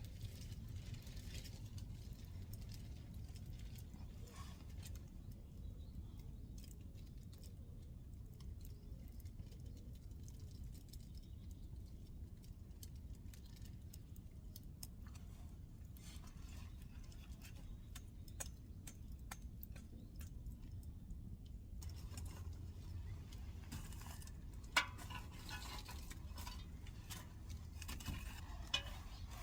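Wood fire crackling faintly over a low steady rumble, with scattered small snaps and a few sharper cracks near the end.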